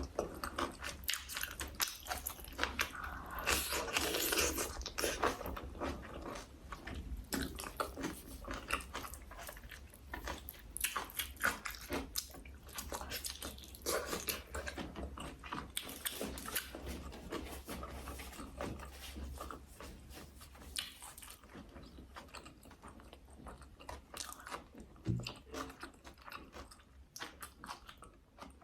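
A person chewing and crunching food, with quick irregular crisp bites. The crunching thins out over the last few seconds.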